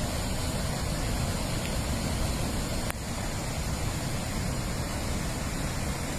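Steady rushing noise of a heavy rainstorm, with a click about three seconds in after which it is a little quieter.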